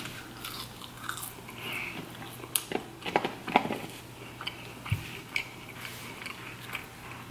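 Close-up chewing of McDonald's french fries, a run of irregular soft mouth clicks and crunches.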